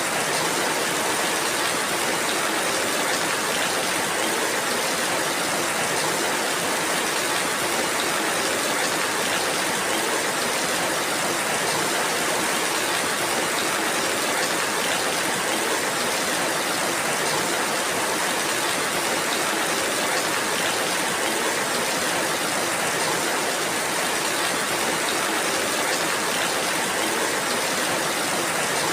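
Steady rainfall: an even, unbroken hiss that holds the same level throughout.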